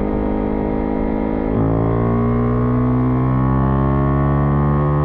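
Husqvarna Vitpilen 401's single-cylinder engine pulling under acceleration. Its pitch drops suddenly at a gear change about one and a half seconds in, then climbs steadily in the next gear.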